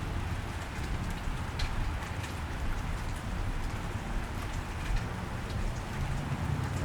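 Steady cold rain falling on a wet street, with scattered sharp drop ticks over a constant low rumble.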